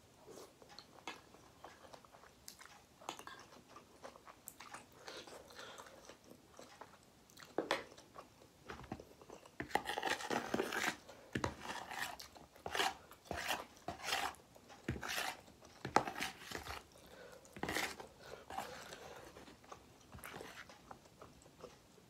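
Close-up chewing of a mouthful of instant noodles, with short clicks of a metal spoon and fork against a plastic bowl. The eating sounds grow louder and more frequent about halfway through, then ease off near the end.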